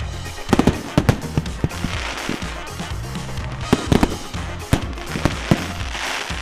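Fireworks going off in a scattered run of sharp bangs and cracks over loud dance music with a steady bass line.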